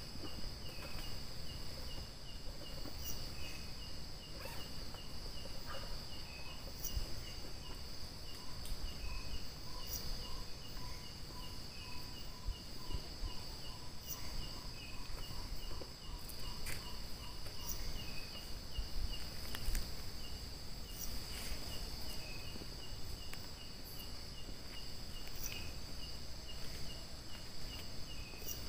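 Chorus of insects such as crickets: a steady high-pitched drone with rapid, evenly repeating chirps just below it. For about nine seconds in the middle, a lower run of evenly spaced notes joins in, over a low rumble of background noise.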